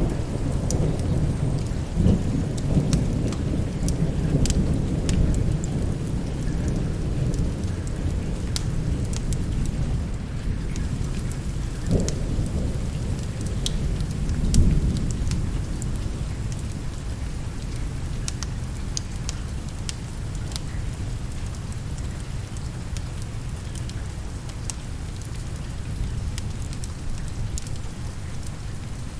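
Steady rain with rolling thunder rumbling low, swelling several times in the first half and easing off toward the end, with scattered sharp ticks over the hiss.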